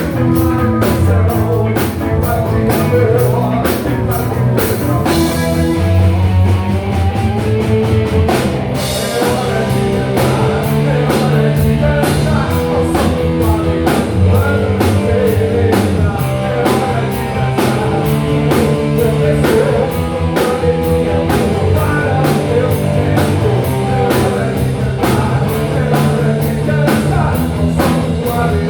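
Live rock band playing a song: electric bass, guitar, keyboards and drum kit with a steady beat, with cymbal crashes about five and nine seconds in.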